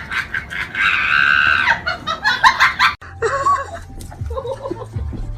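A person laughing in quick bursts, with a high, held shriek about a second in. It cuts off abruptly about three seconds in.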